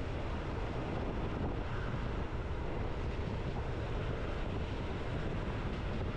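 Steady running noise of a moving train, heaviest at the low end and unbroken throughout.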